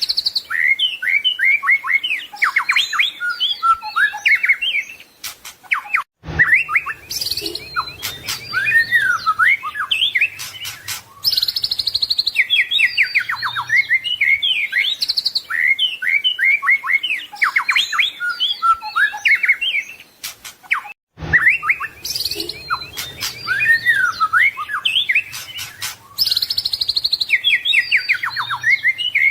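White-rumped shama singing a fast, varied song of whistles, trills and chips, with two brief silent breaks.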